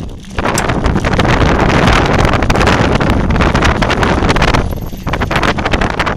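Loud wind buffeting the microphone, a dense rushing noise full of irregular crackles, dipping briefly just after the start and about five seconds in.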